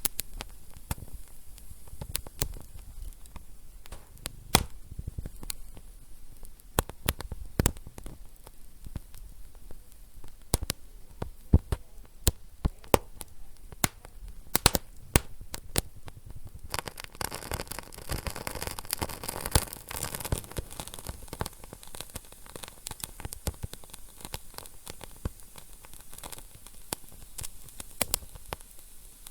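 Wood fire burning in a fireplace, with irregular sharp crackles and pops over a low hiss. A hissing flare-up comes about two-thirds of the way through.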